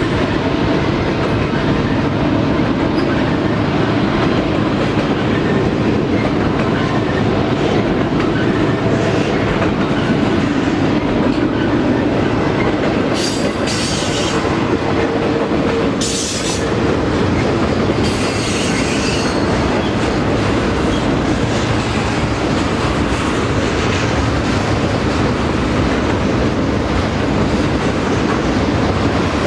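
Double-stack container cars of a freight train rolling past with a steady rumble and clatter of steel wheels on rail. A few brief high-pitched wheel squeals come about halfway through.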